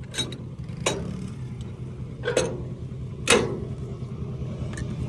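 A vehicle engine idling with a steady low hum, with four sharp knocks over it. The last knock, about three seconds in, is the loudest.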